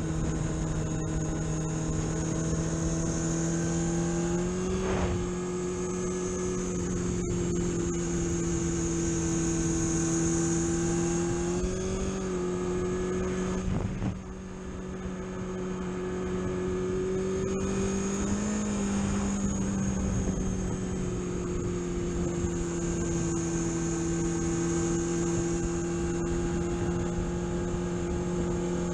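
Car engine running under way, a steady low drone with road hiss. Its pitch rises briefly about five, twelve and eighteen seconds in, and the loudness dips for a moment around the middle. Heard on a test drive to check for clutch slip.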